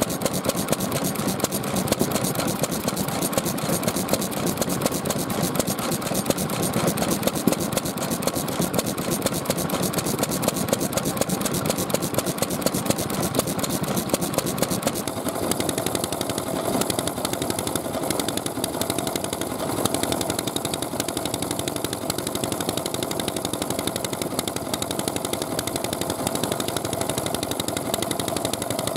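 Vintage Japanese stationary oil engines (hatsudoki) running steadily with a fast, even beat. About halfway through, the sound changes and a steady mid-pitched tone comes in.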